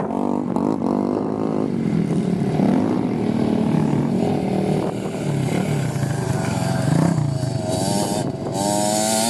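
Several off-road motorcycle engines revving, their pitch rising and falling as they accelerate and shift. Near the end one bike's engine rises to a higher pitch as it accelerates.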